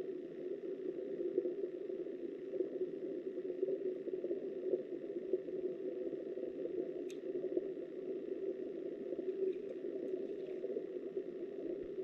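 Steady muffled rush of stream water as heard by an underwater camera, with a sharp click about seven seconds in and a few faint ticks a little later.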